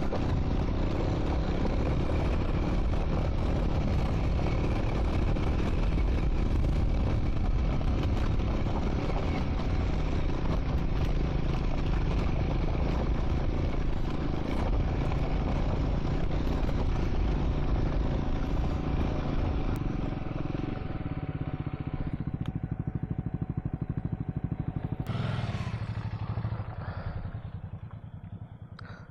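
Triumph Scrambler 400 X single-cylinder motorcycle riding on a gravel track, engine running with tyres on loose stones. It eases off about 20 s in and slows further near the end, with a short sharp clack about 25 s in.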